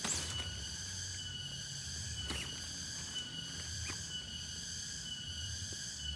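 Night insect chorus of crickets or katydids trilling steadily in several high, even tones, with three short sharp clicks and a low rumble underneath.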